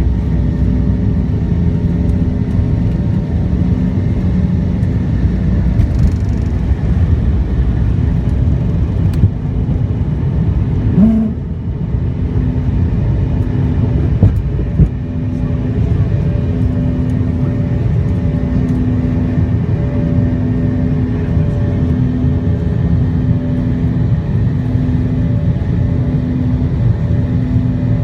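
McDonnell Douglas MD-90 airliner's twin IAE V2500 turbofans running: a loud, steady rumble with a droning tone that pulses about once a second. A short rising whine comes about eleven seconds in, and a single knock a few seconds later.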